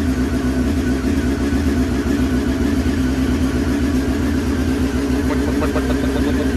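Honda CBR954RR's 954 cc inline-four idling steadily but stumbling at low revs. This is the misfire the owner likens to the bike running on three cylinders.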